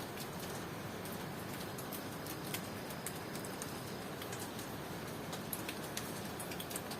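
Steady rain falling, a constant hiss with many scattered drops ticking irregularly on nearby surfaces.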